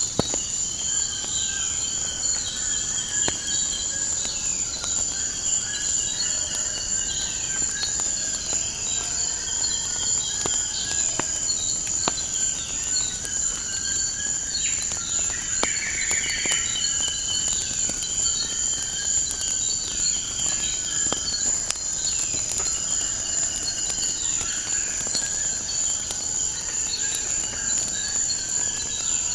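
Crickets chirring in a steady high trill, with birds calling and whistling in short repeated phrases over them, and a wood fire crackling with scattered sharp pops.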